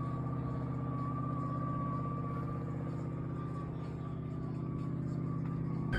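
A vehicle engine held at steady revs, running evenly, with a steady whine over it.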